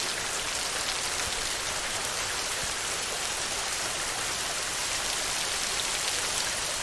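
Steady heavy rain falling on a metal roof, a dense even hiss flecked with fine drop ticks.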